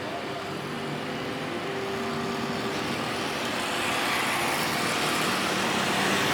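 Jet airliner engine noise growing steadily louder as the aircraft draws closer.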